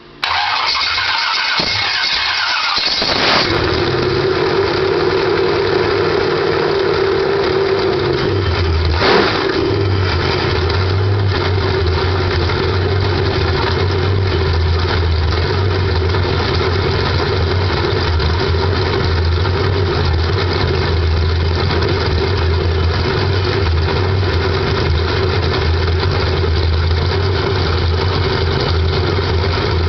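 1979 Corvette L48 350 small-block V8, freshly rebuilt, cranked by a weak starter and firing up for the first time about three seconds in. It then runs steadily, with a brief change in the engine note about nine seconds in.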